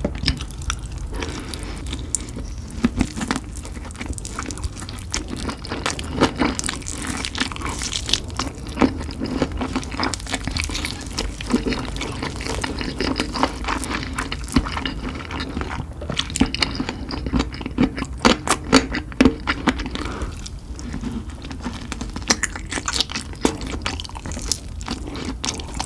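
Close-miked chewing and biting of spicy chicken: a continuous run of small wet mouth clicks and crunches at an uneven pace.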